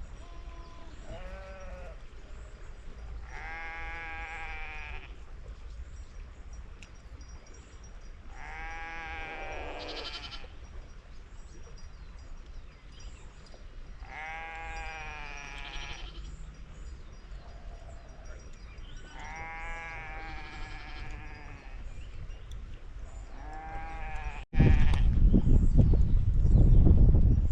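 Farm animals bleating: five long calls, about five seconds apart. Near the end, a sudden loud low rumbling noise takes over.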